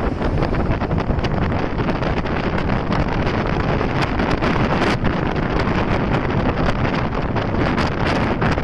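Loud wind buffeting the microphone of a camera on a moving motorcycle: a dense, rushing, gusty noise heaviest in the low end.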